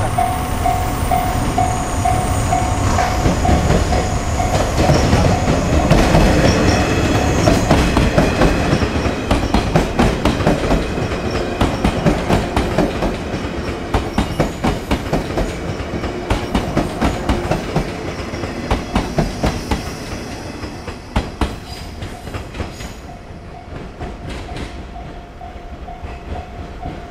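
Electric train passing at speed, its wheels clicking in quick rhythmic runs over the rail joints. The train is loudest in the first half and fades away near the end.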